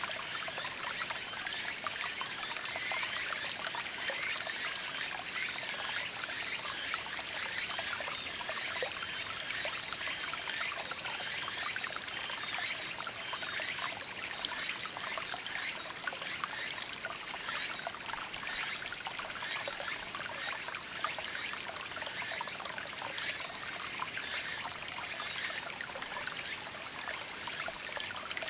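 Small garden stream babbling and trickling: a steady run of water with a dense patter of tiny splashes. A steady high-pitched ringing runs underneath it.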